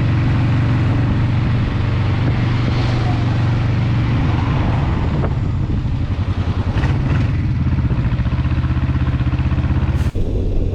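Motorcycle engine running at steady revs while riding, a low even drone. Near the end the sound cuts off abruptly and a different engine drone takes over.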